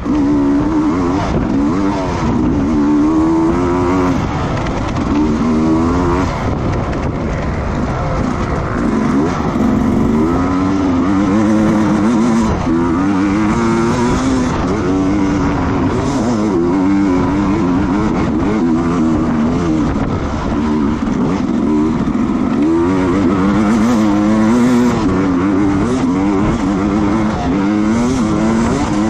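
Racing motorcycle engine heard from on board, revving up and dropping back again and again as the rider accelerates, shifts and brakes around the track, over a steady rush of wind noise.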